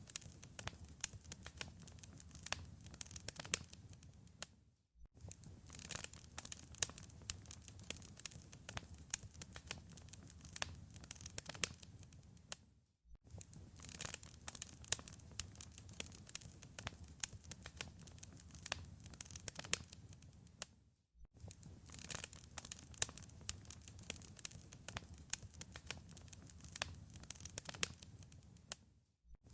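Wood fire in a fireplace crackling, dense sharp pops and snaps over a low rumble of the flames. The sound cuts out for a moment about every eight seconds, the seam of a looped recording.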